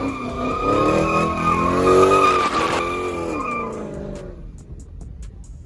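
A car's tyres squealing as it spins donuts, with the engine revving up and down underneath. The sound builds to its loudest about two seconds in, then fades out about four seconds in.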